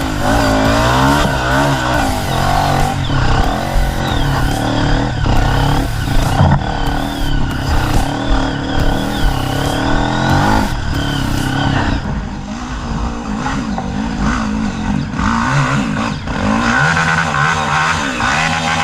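Off-road motorcycle engine revving hard, its pitch rising and falling again and again. It eases off after about twelve seconds, then picks up again near the end.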